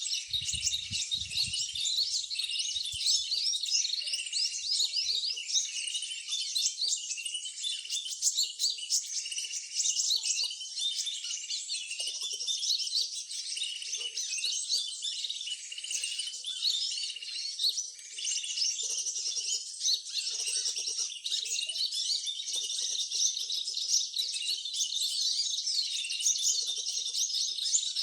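Many small birds chirping and twittering at once: a dense, continuous chorus of quick high chirps and trills. A few faint low thuds sound in the first few seconds.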